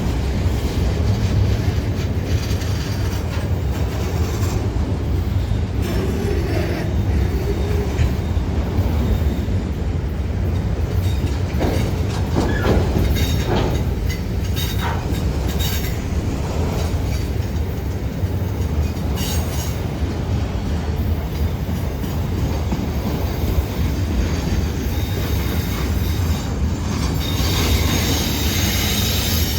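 CSX freight train rolling past: a steady low rumble of cars on the rails with clicking over the joints, and wheels squealing in the last few seconds.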